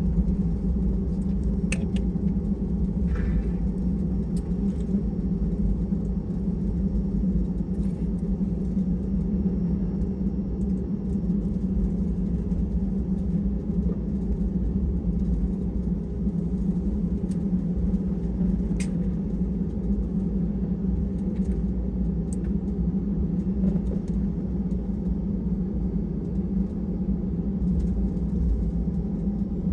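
Steady low drone inside an Airbus A320 cabin at the gate, with a few faint clicks and knocks scattered through it.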